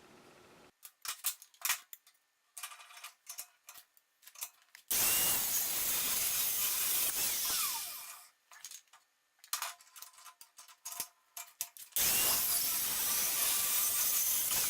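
Power tool with an abrasive cut-off wheel cutting a bar of mild steel, in two loud runs of about three seconds each. Each run ends as the wheel winds down in a falling whine. Before and between the runs come clicks and knocks of the steel being handled.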